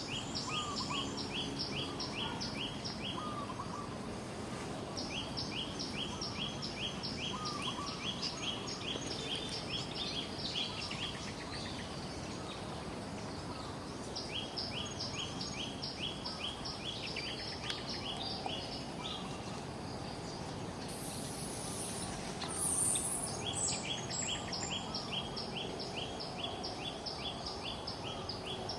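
A songbird singing repeated phrases of rapid, evenly spaced high notes, each phrase lasting a few seconds with short pauses between, over a steady background hiss of outdoor ambience.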